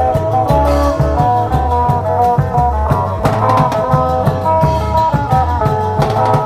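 Isan klong yao long-drum procession band playing: regular drum beats under a plucked-string melody.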